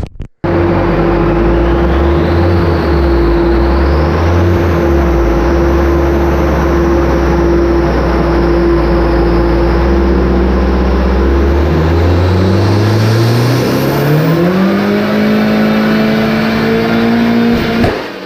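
Turbocharged 1.8-litre four-cylinder (1.8T) in a Mk2 Golf running on a chassis dyno. It holds steady revs for about twelve seconds, then the revs climb steadily for a few seconds, hold high and cut off near the end.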